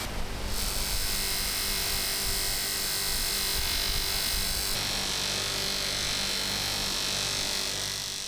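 A small electric motor tool running steadily, with a dense hiss and whir that shifts in its upper pitches about halfway through.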